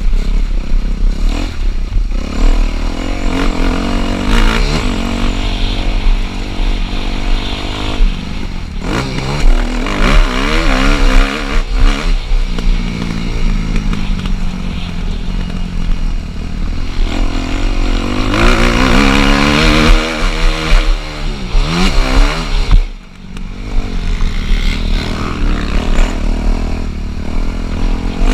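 Four-stroke motocross bike being ridden on a dirt track, the engine revving up and down repeatedly as the throttle is worked. Near the end the engine sound drops out briefly, then picks up again.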